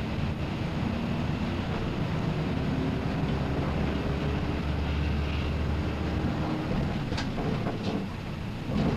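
City bus engine and drivetrain running while the bus drives, heard from the front of the passenger cabin, its pitch shifting a little, with a few short clicks or rattles near the end.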